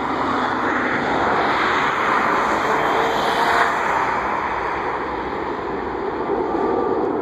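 Jet airliner's engines passing, a steady rushing roar that swells over the first few seconds and then slowly eases.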